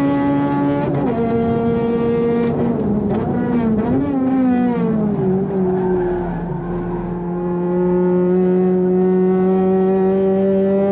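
Honda Civic FD2's four-cylinder engine at racing speed, heard from inside the car: high revs, a gear change about a second in, then short throttle blips and falling revs through the downshifts for a corner, and from about seven seconds in the revs climbing steadily again under full throttle.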